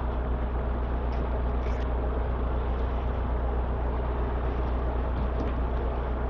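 Steady low machine hum with an even rushing noise over it, unchanging throughout, with a few faint light ticks.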